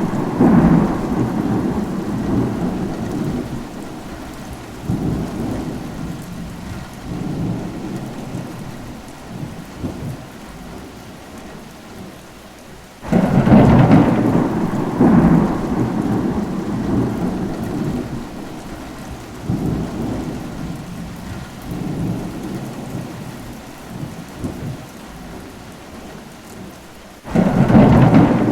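Steady rain with rolling thunder. A heavy rumble breaks in sharply about 13 seconds in and again near the end, each one swelling in waves and dying away over about ten seconds, with the rain going on underneath.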